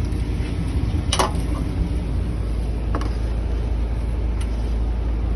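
Steady low rumble of a running motor, with a few short clicks: a sharp one about a second in, a softer one about three seconds in and another near the end.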